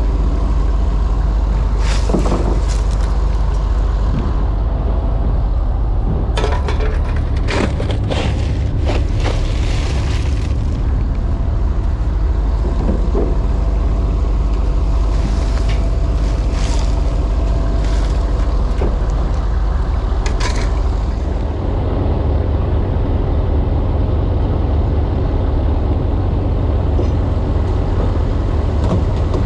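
A large engine running steadily with a deep rumble, with scattered knocks and clattering over it, most of them in the first ten seconds.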